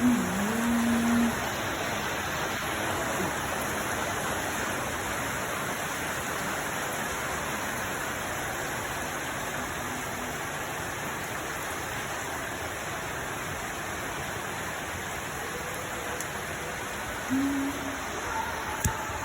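Steady rushing noise of water, even and unbroken. Brief low tones sound over it, one about a second long at the start and another shortly before the end.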